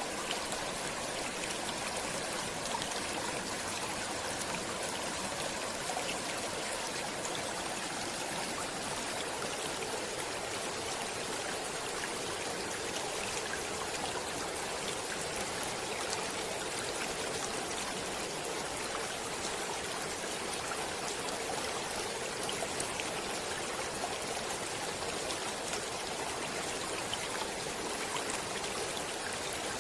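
Stream water flowing steadily, an unbroken rush dotted with many small splashes and drips.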